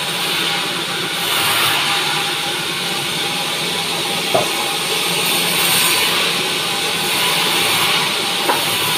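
Sawmill band saw cutting through a pine log: a steady loud hiss from the blade, with two short knocks, one about halfway through and one near the end.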